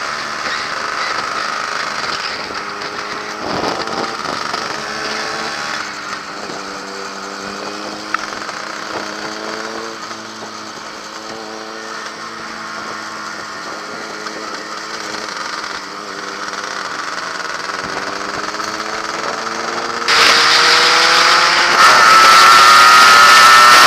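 Yamaha RXS100's small two-stroke single-cylinder engine running under way, its pitch climbing and settling several times as it rides through the gears. About twenty seconds in it gets much louder as the bike accelerates hard, the engine pitch climbing steadily, with wind rushing over the microphone.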